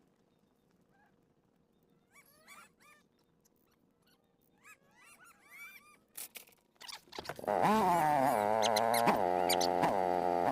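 A cow mooing, a long, loud bellow that starts about seven seconds in and wavers in pitch, with two short breaks. Before it there are a few faint high chirps.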